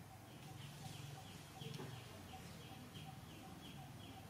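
Faint repeated high chirping, about two or three short calls a second, from a bird, over a low steady hum.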